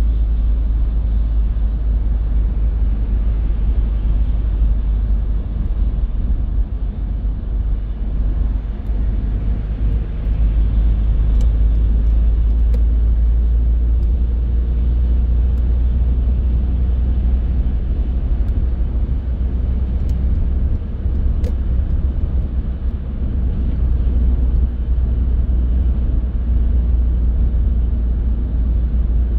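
Car driving along a road: a steady deep rumble of tyre, road and engine noise, with a few faint clicks now and then.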